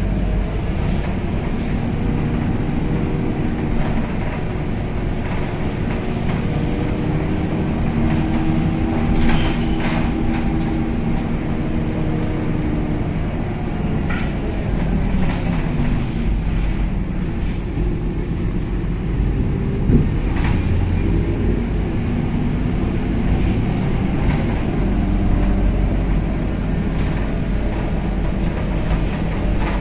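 Inside a Scania K270UB city bus on the move: the diesel engine runs with its pitch rising and falling as the bus gathers speed and eases off, over a heavy road rumble. A few knocks and rattles from the body, the loudest about nine and twenty seconds in.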